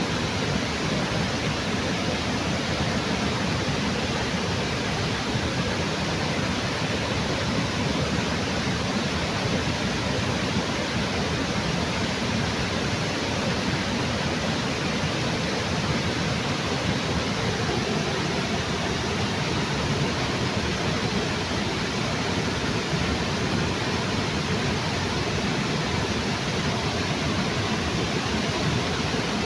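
Water of a waterfall rushing steadily, an even unbroken roar.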